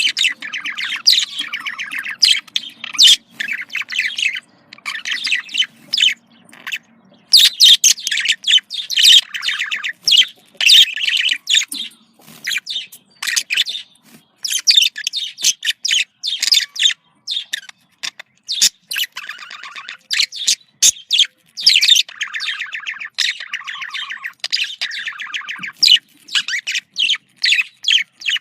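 Budgerigars chattering and warbling in quick, dense phrases with short pauses; this is the breeding-season chatter used to encourage budgies to mate.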